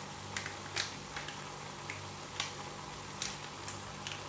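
Stir-fried cabbage and vegetables sizzling faintly in a pan, with a few scattered crackles over a low steady hum.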